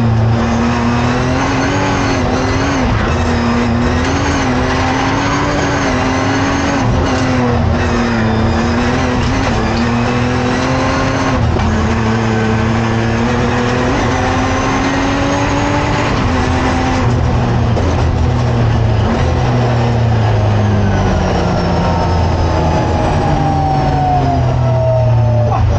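BMW 1M hillclimb car's engine heard from inside the cabin, driven hard up the course, with gear changes down through the box. Its pitch falls over the last few seconds as the car slows.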